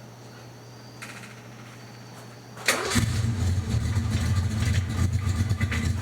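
Carbureted Ford Mustang engine starting: it catches with a sudden loud burst about two and a half seconds in, then settles into steady running, with its carburetor freshly rejetted.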